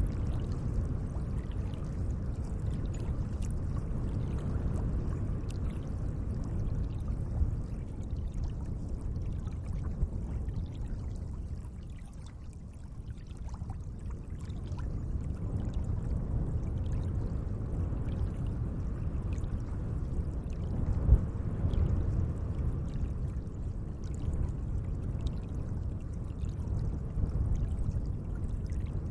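Gentle lake water lapping and sloshing: a steady low rush with small scattered splashes, easing off briefly about twelve seconds in, with one slightly louder splash around twenty-one seconds.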